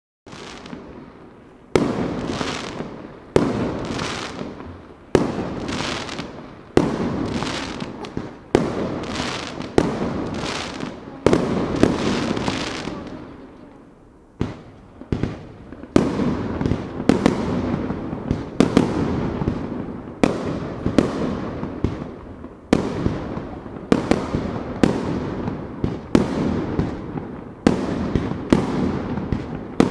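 Sato Enka aerial firework shells bursting in quick succession, a sharp bang every second or so, each trailing off in a rolling echo. There is a brief lull about halfway through, then the bangs resume.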